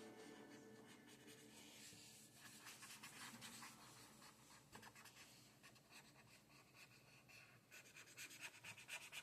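Faint scratching of a drawing tool on paper: irregular quick strokes, coming in short runs.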